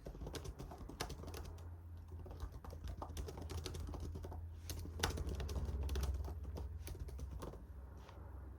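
Typing on a computer keyboard: a run of irregular key clicks, over a low rumble that swells about two-thirds of the way through.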